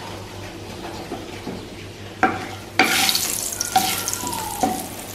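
Dried red chillies frying in hot mustard oil in a nonstick kadai, sizzling, while a wooden spatula stirs and scrapes across the pan four or five times from about two seconds in.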